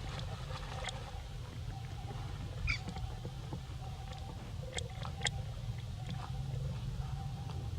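A baby monkey's short high squeak about three seconds in, with a few sharp clicks and taps, over a steady low rumble.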